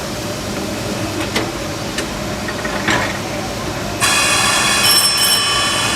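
Cab sound of the Disneyland Railroad's Ernest S. Marsh, a 1925 Baldwin steam locomotive: a steady noise with a few sharp clicks. About four seconds in, it turns suddenly louder, to a hiss with high ringing tones.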